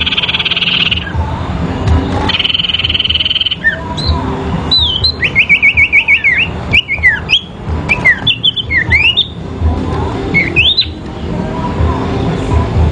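Sirpu songbirds singing against each other in a duel. A buzzy, rapid trill comes in the first second and again around two to three and a half seconds in, followed by sharp slurred whistles and chirps, with a fast run of repeated notes about five seconds in.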